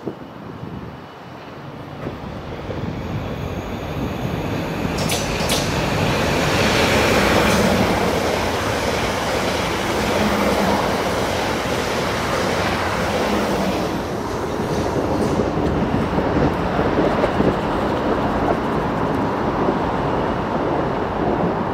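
Siemens Desiro electric multiple unit running through the station on the near line: the rumble and clatter of its wheels over the rails build to a peak a few seconds in and stay loud as the coaches pass, with a few sharp clicks early on.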